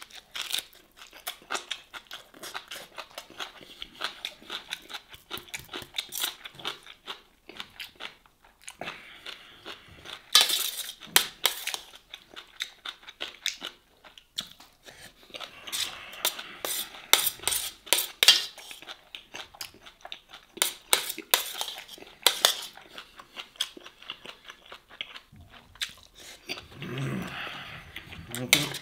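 Close-miked mukbang eating sounds: wet chewing and crunching of grilled green onion and rice, with clicks of a spoon and fingers against a metal serving tray.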